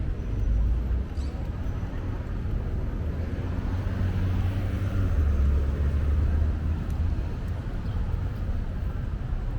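City street ambience dominated by road traffic: a steady low rumble of vehicles, which swells from about halfway through for a couple of seconds as a vehicle passes.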